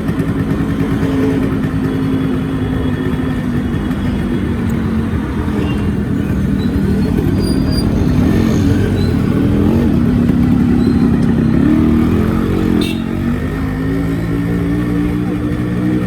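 Yamaha RX100's two-stroke single-cylinder engine running steadily. Its pitch climbs over a couple of seconds, falls suddenly with a sharp click near the end, then picks up again.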